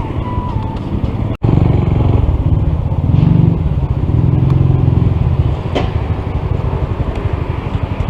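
Small single-cylinder motorcycle engine running steadily while riding, with a brief dropout about a second and a half in, after which it is louder.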